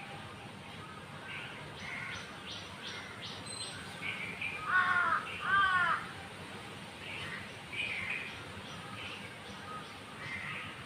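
Small birds, sparrows among them, chirping on and off, with a quick run of short high notes early on and two loud calls from a larger bird about five seconds in.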